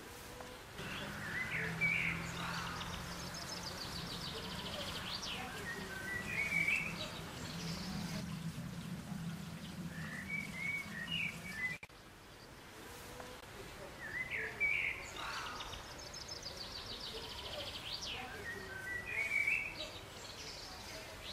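Small birds singing, with short chirps and a fast high trill, over a low steady hum. The same stretch of song repeats about every twelve seconds, as a looped recording does.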